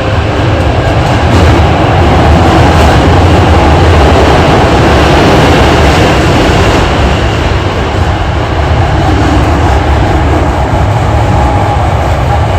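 Hankyu 8300 series electric train running between stations, heard from inside the car: a steady, loud rumble of wheels on rail and traction motors, with faint steady tones in the mix.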